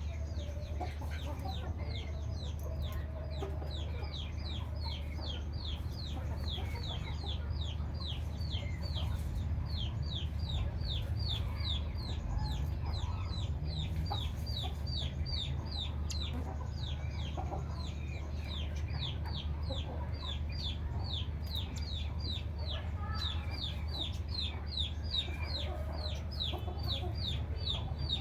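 A small bird calling in a rapid, unbroken series of short, high, downslurred notes, about four a second, over a steady low hum.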